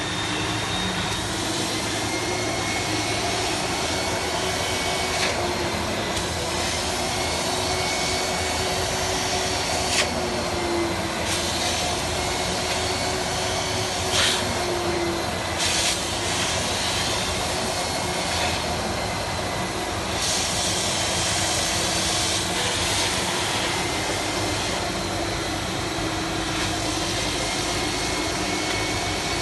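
GAMMA 300 carpet extractor (washing vacuum cleaner) running steadily: a motor whine over a constant hiss of suction, with a few brief sharp changes in the hiss around ten and fifteen seconds in.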